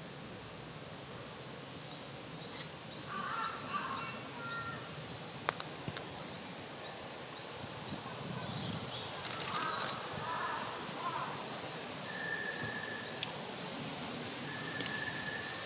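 Woodland background with several birds calling now and then: bursts of chattering calls about four and ten seconds in, and two short, level whistled notes later, over a run of faint high chirps.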